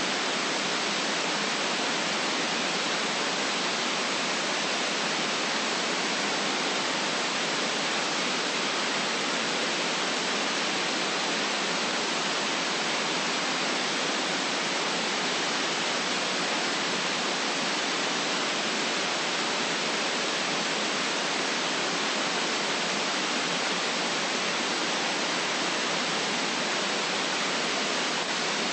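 Steady white noise: an even, unbroken hiss with no change in level and little deep bass.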